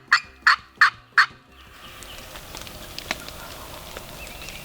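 A loud series of short, evenly spaced turkey yelps, about three a second, that stops a little over a second in. After it comes the steady patter of rain.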